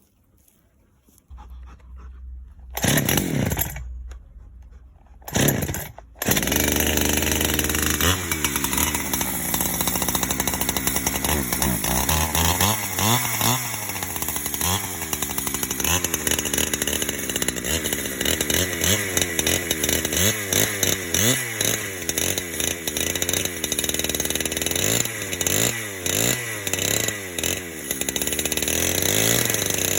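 Two-stroke chainsaw mounted in a chainsaw mill, ripping a log lengthwise into planks. After two short bursts of revving in the first six seconds, it runs continuously at high speed, its pitch wavering up and down under the load of the cut.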